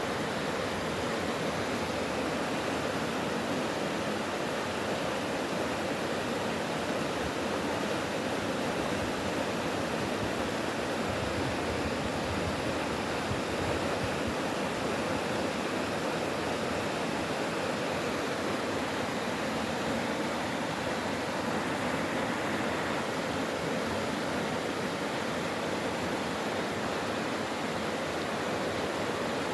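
Mountain stream water rushing steadily over rocks, a constant even rushing.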